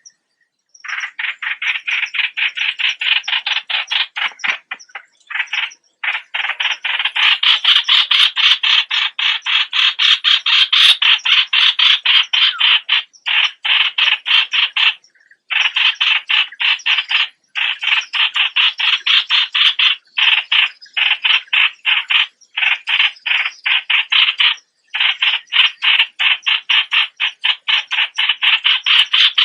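A bird the Thai uploader calls nok plot, calling in a fast, harsh, rattling series of about four notes a second. It goes in long runs broken by brief pauses.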